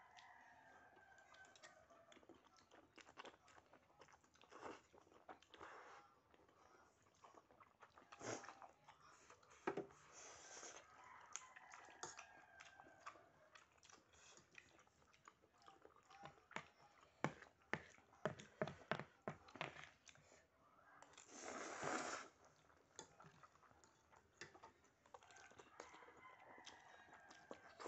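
Close-miked eating of spicy instant noodles and rice: chewing and mouth smacking with many scattered sharp clicks. A short breathy rush comes about three quarters of the way through.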